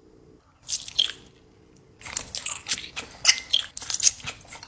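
Close-miked biting and crunchy chewing of food: a bite about a second in, then steady crunching from about two seconds on.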